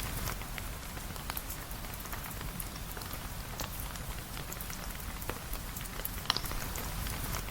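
Steady rain falling on a surface, with many scattered drop ticks and one sharper click about six seconds in.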